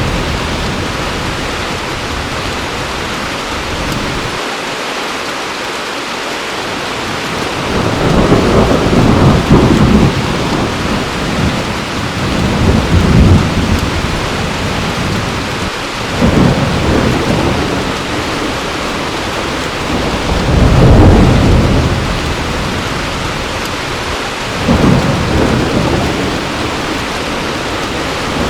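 Heavy rain falling steadily, with thunder rumbling and fading again and again, about five low swells.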